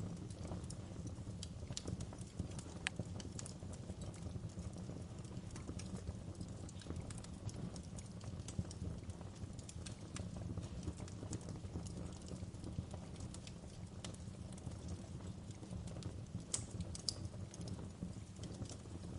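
Wood fire crackling in a fireplace: a steady low rumble of burning with irregular sharp pops and snaps, a few louder cracks near the end.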